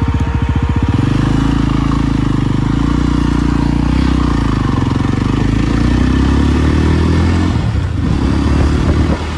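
Motorcycle engine running with a fast, even firing beat, then pulling away under throttle about a second in. Its pitch rises and falls, and it drops briefly near the end.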